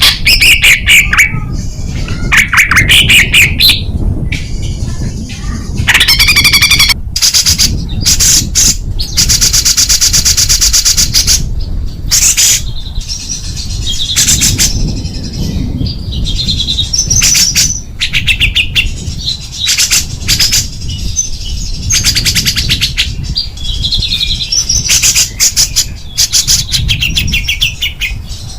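Recorded small songbirds singing: very fast, dense high trills in bursts alternating with short whistled phrases, a masteran track of the rapid 'tembakan' song used to tutor cage birds. A steady low background noise runs underneath.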